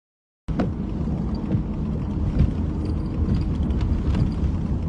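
Strong storm wind buffeting the microphone in a steady low rumble, cutting in suddenly about half a second in after total silence.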